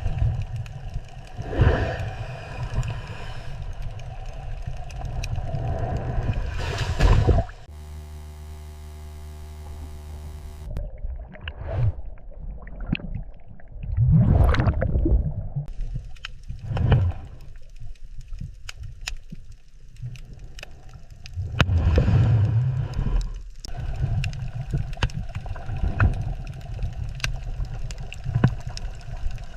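Underwater ambience of muffled swirling and gurgling water, rising and falling in swells and swishes. About seven and a half seconds in, a steady low droning tone with many overtones cuts in abruptly and stops just as abruptly about three seconds later.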